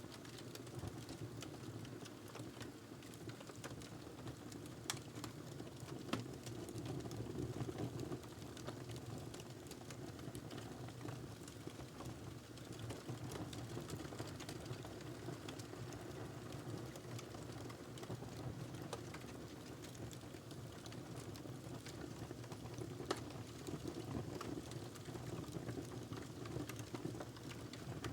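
Wood fire burning in a fireplace: a steady low rush of flames with scattered crackles and sharp pops, a few of them louder.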